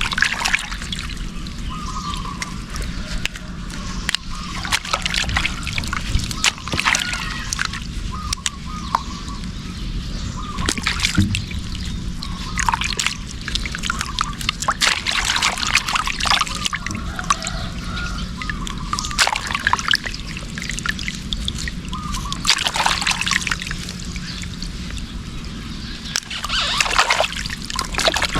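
Water sloshing, trickling and splashing in irregular bursts, as when fresh turmeric roots are washed by hand in a basin of water.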